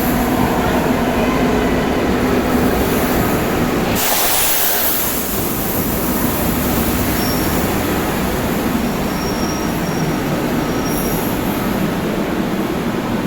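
Madrid Metro Series 2000A train running into a station, a steady rumble of wheels on the rails. A short loud hiss comes about four seconds in, and a faint high squeal sounds on and off later as the train slows.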